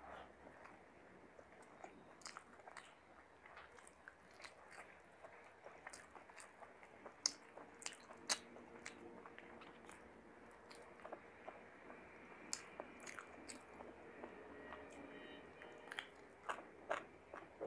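A person chewing mouthfuls of chicken biryani eaten by hand, close-miked, with many short wet mouth clicks and smacks; two stronger smacks come about halfway through.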